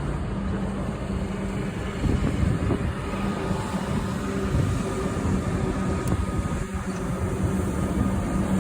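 Goods train passing: a steady low engine hum over a continuous rolling rumble, with a faint higher steady tone joining about three seconds in.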